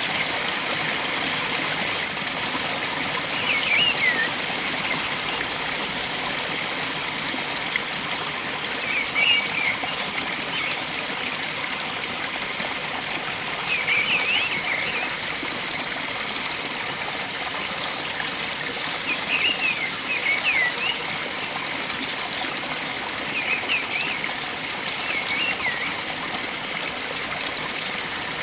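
Stream water flowing steadily, with a bird singing short phrases of quick rising and falling chirps about every five seconds.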